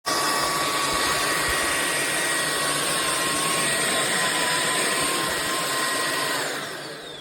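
SunSare X7A cordless stick vacuum running steadily with a high motor whine, cutting in abruptly at full speed. About six and a half seconds in it is switched off, and its whine falls in pitch as the motor spins down.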